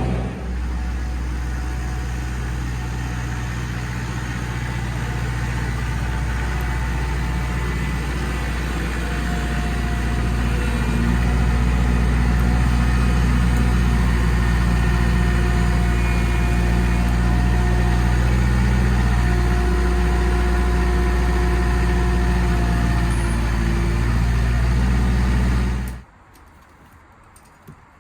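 An engine running steadily with a low hum, holding a constant speed, then cutting off suddenly near the end.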